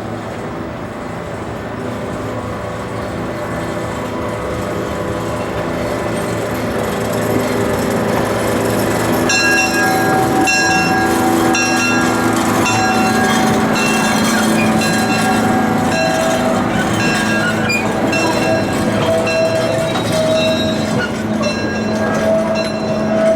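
Small 0-4-0 ride-train locomotive running and drawing closer, its rumble growing louder over the first several seconds. From about ten seconds in, high ringing tones come in and out over the rumble.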